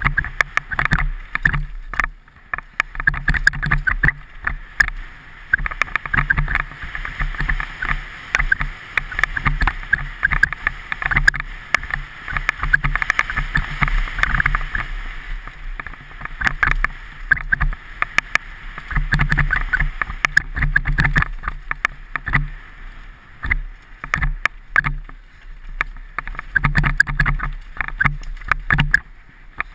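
Rushing noise with rapid, irregular rattling and knocking throughout, as on a fast descent over rough ground.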